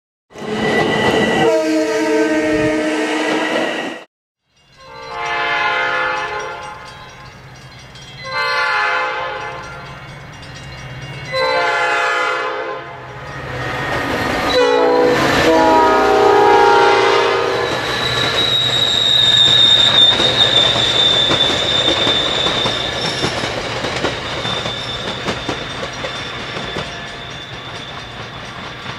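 Commuter train horn sounding a series of blasts, some long and some shorter, then the train passing with its wheels clicking over the rails and a steady high tone running over the rumble in the second half.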